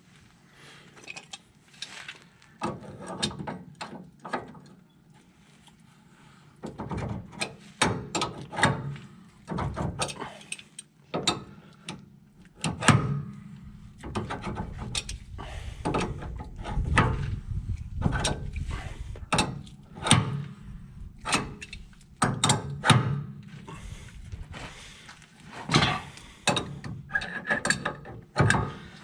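Hand tools and metal parts clicking and clanking irregularly as a steering-box brace is fitted and bolted up on a truck, with short runs of ratcheting.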